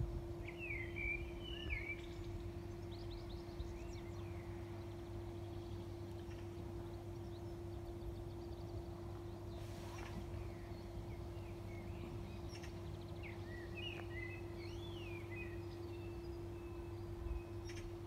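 Small songbirds singing in short, quick chirping phrases, one burst about a second in and another a few seconds before the end. Under them runs a steady low hum with a faint rumble.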